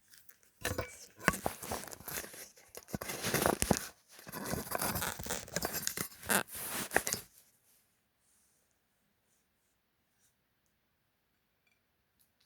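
Close-miked crackling and crunching from the tacos being eaten or handled, in two bursts of about three seconds each, then near silence with a few faint clicks.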